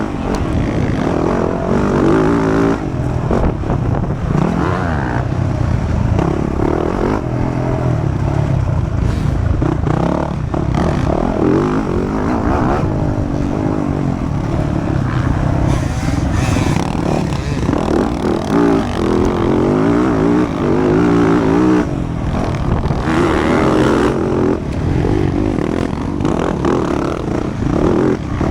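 Motocross bike engine running hard under racing throttle, its pitch sweeping up and down over and over as it revs and shifts.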